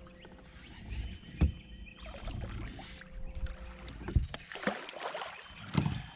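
Sharp knocks on a small boat and water sloshing while a big striped bass is fought beside it. A steady hum runs under the first half and stops a little past the middle.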